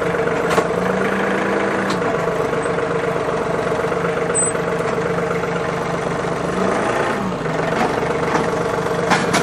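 John Deere tractor engine running steadily, with its pitch dipping briefly about seven seconds in. A few sharp metal clanks come near the start and near the end.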